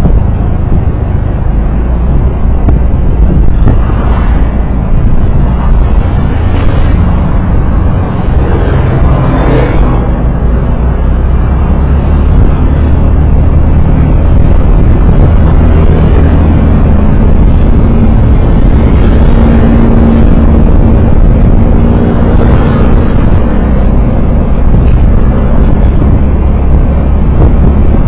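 Steady engine and road noise from a vehicle on the move, recorded on board, with a constant low engine hum; other traffic swells past a few times in the first ten seconds.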